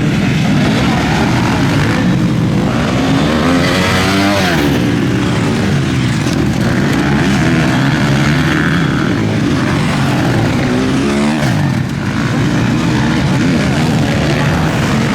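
Several motocross bikes racing, engines revving up and down through the gears, with pitch climbing sharply about four seconds in and again near eleven seconds.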